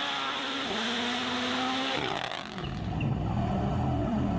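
Rally car engine held at steady high revs, then lifting off about two seconds in to a lower, rougher note that begins to climb again near the end.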